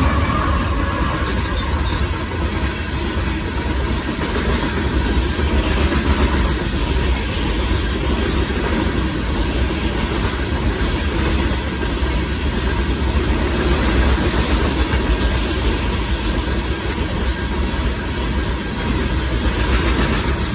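Union Pacific freight train passing close by: a trailing diesel locomotive at the start, then loaded rock cars rolling past in a steady rumble with wheels clacking over the rail joints.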